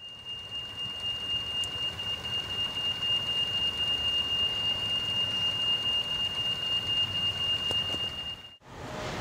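Train noise: a low rumble with a steady high-pitched squeal held over it. Near the end the sound cuts off sharply and a different train rumble takes over.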